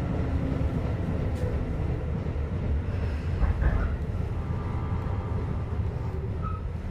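Tobu 10030-series electric train running on the rails, heard from on board: a steady low rumble of wheels and running gear, with a faint whine in the middle, gradually getting quieter as it slows toward a station stop.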